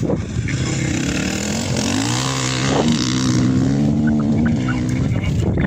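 Engine of an off-road rally-raid vehicle rising in pitch about two seconds in, then holding a steady note before fading near the end, over a constant rumble.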